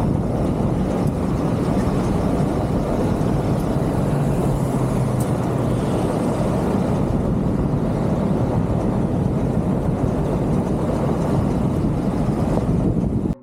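A vehicle running steadily: a continuous low engine and road rumble with no breaks, which cuts off abruptly at the very end.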